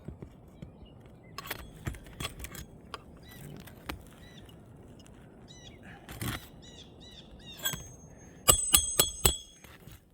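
Roofer's hatchet driving roofing nails through an asphalt shingle: scattered single knocks, then near the end a quick run of four loud ringing metal strikes. Birds chirp in between.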